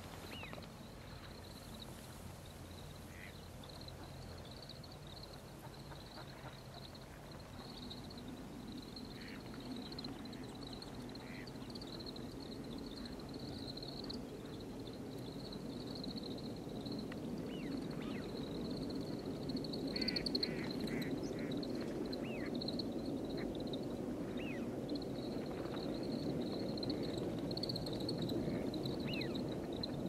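Short bird calls, one at a time and scattered, with a quick run of several calls about two-thirds of the way through. Behind them are a constant thin high-pitched tone and a low rushing background that swells louder from about a quarter of the way in.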